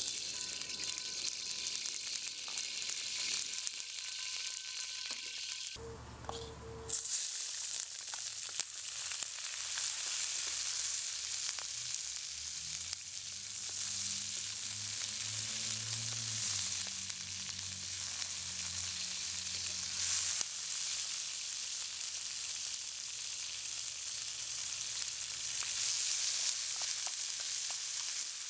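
Food sizzling in hot oil in a wok: garlic and chilies frying as a wooden spatula stirs them, then octopus pieces frying. The sizzle is a steady hiss.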